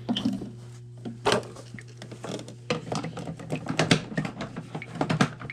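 Irregular small clicks and knocks of furnace condensate drain fittings being handled and fitted back together, over a steady low hum.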